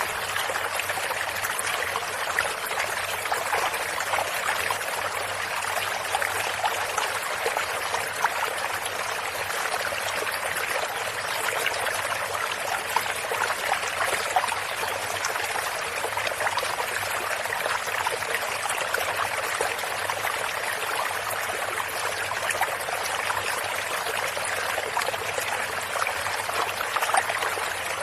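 A stream of running water, flowing and splashing steadily over rocks in a constant rush and trickle.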